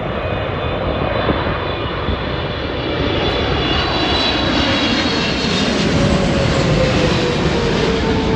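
Jet airliner's engines roaring as it passes low overhead, growing louder to a peak late on, with a high whine and a tone that slowly drops in pitch as it goes by.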